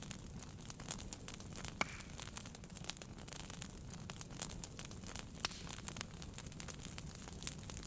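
Wood fire burning in a fireplace: irregular crackles and small pops over a low steady rush, with one sharper pop about two seconds in.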